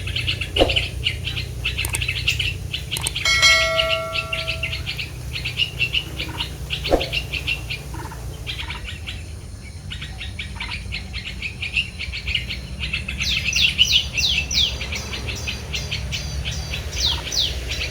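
Small songbirds chirping continuously with many rapid short calls, and a run of quick falling whistled notes from about thirteen seconds in. A short held tone sounds near four seconds in, over a steady low rumble.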